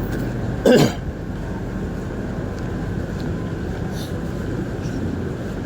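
Steady background hum of distant road traffic, with one short, loud cough-like sound about a second in.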